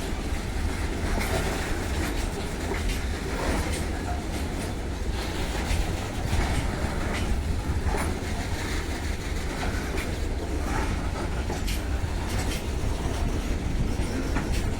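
Goods train of BOBRN-type hopper wagons rolling past, wheels clacking over the rail joints over a steady low rumble.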